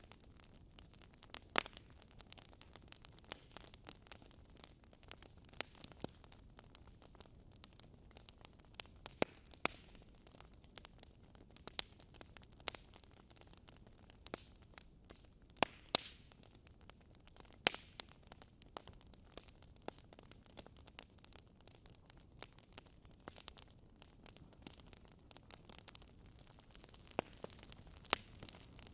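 Wood fire burning in a fireplace: irregular sharp crackles and pops, a few a second, over a faint steady hiss.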